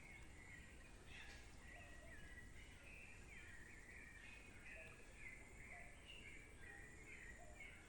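Faint chorus of birds chirping: many short whistled chirps and quick up-and-down notes, overlapping without pause, over a low rumble.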